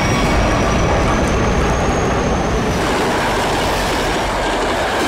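Passenger train running along the track: a steady, loud rumble and rattle of the wheels, with a faint high whine over the first half.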